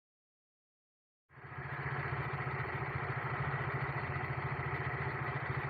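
Adventure motorcycle engine idling steadily with an even, fast firing pulse, coming in about a second in after silence.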